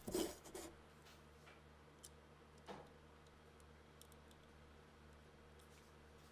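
Near silence with a low steady hum, broken by a soft knock just after the start and a few faint, scattered light clicks, like small parts or a tool being handled and set down.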